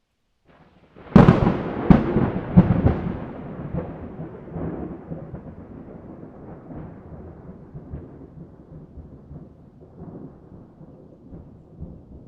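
A thunderclap: a few sharp cracks about a second in, then a long rumble that slowly fades away.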